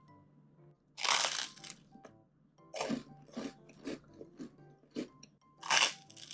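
Crunching bites into crisp air-fryer-toasted white bread, with a loud crunch about a second in and another near the end, and smaller crunches between them.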